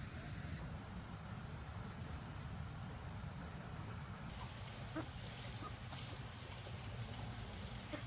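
Steady outdoor background: a low rumble with a thin, high, unbroken tone above it and a few faint short chirps.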